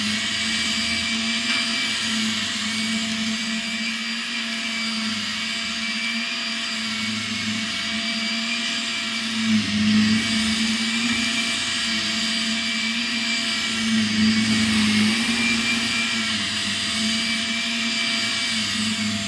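Shark Rocket Professional stick vacuum running steadily, a motor hum and airflow hiss, swelling briefly a couple of times.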